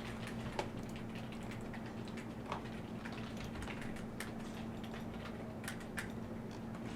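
Irregular light clicks and ticks over a steady low hum.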